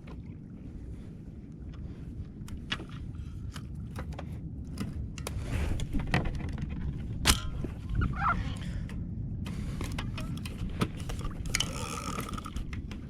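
Steady low rumble of wind and water on the kayak, with scattered clicks, knocks and rattles of fishing gear being handled aboard.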